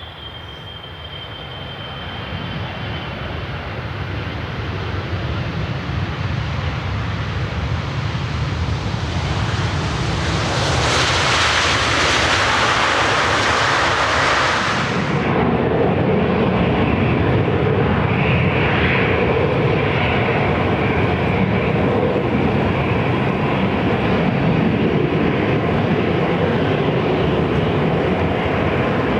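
Jet airliner's engines passing close by. The sound builds steadily over about ten seconds and peaks in a loud hiss around the middle. The high part then drops away suddenly, leaving a steady low rumble as the aircraft moves off.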